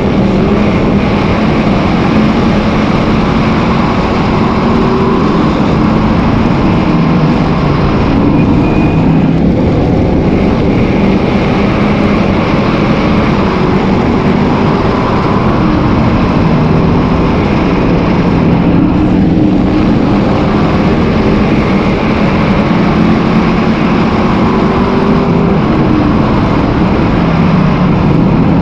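Several dirt-track race car engines running hard together, a loud continuous drone whose pitch rises and falls as the cars go around.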